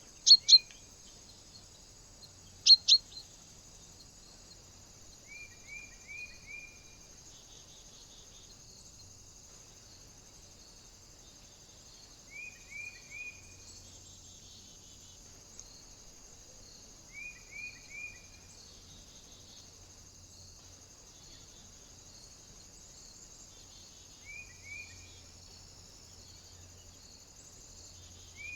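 Small birds calling at a feeder: two loud, sharp double call notes near the start, then a bird repeating a short phrase of three or four quick down-slurred notes about every five seconds, over a steady high hiss.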